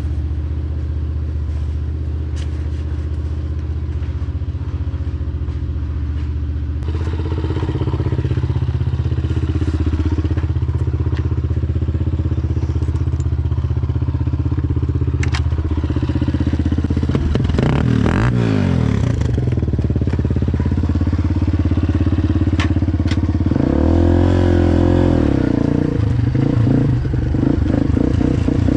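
Dirt bike engine running at a steady idle, revved up and back down about two-thirds of the way through and again near the end, with a few sharp clicks.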